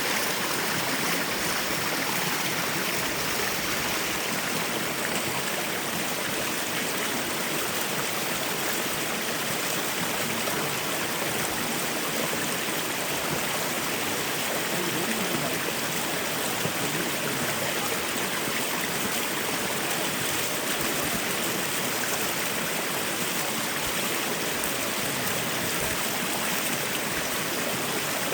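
Mountain valley stream flowing steadily, an even, unbroken rush of water.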